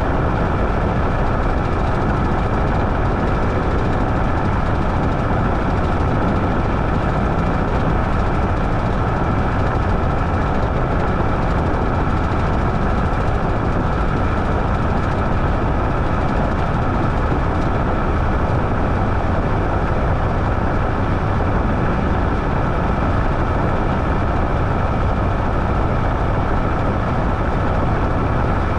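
Washing machine running steadily: an even mechanical noise, unchanged throughout, with a faint steady whine over it.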